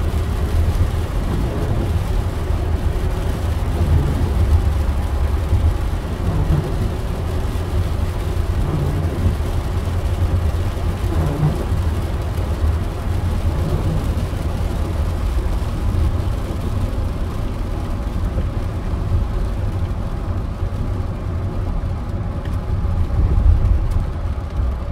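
Steady low rumble of a car driving, its road and engine noise.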